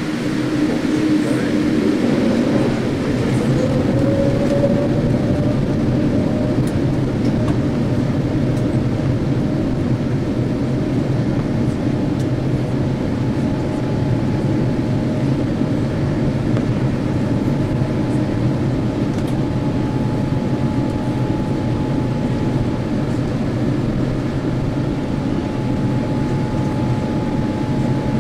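Jet engine and airflow noise inside a Boeing 787-8 Dreamliner cabin during takeoff, a loud steady rushing noise. An engine whine rises in pitch over the first few seconds, then holds steady, and a faint high steady tone joins about halfway through.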